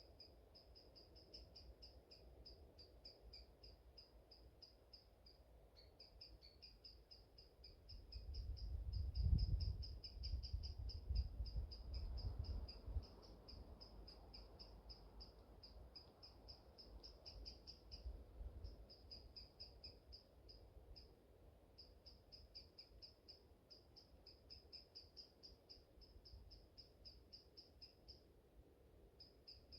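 A high-pitched, rapid pulsed chirping runs almost without a break, stopping only briefly a few times. A gust of wind rumbles on the microphone about eight seconds in and dies down about five seconds later; it is the loudest part.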